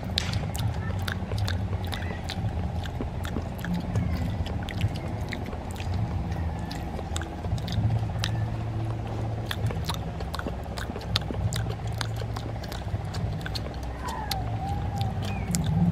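Children chewing grilled banana off skewers, with many small wet mouth clicks, over a steady low hum.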